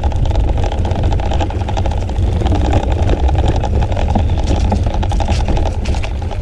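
Wind rumble on a bicycle-mounted GoPro's microphone while riding, with road noise and frequent small rattling clicks.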